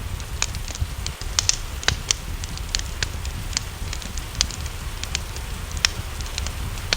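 Wood fire crackling with irregular sharp pops, several louder ones scattered through, over a steady hiss of rain and a low rumble.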